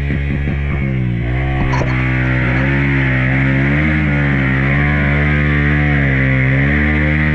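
Trail motorcycle engine revving hard and held high, its revs rising and dipping as the bike labours to get through mud. There are a few light knocks in the first two seconds.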